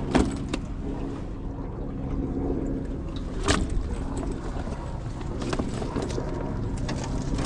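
A boat's motor runs steadily with a low hum, and several sharp knocks sound now and then.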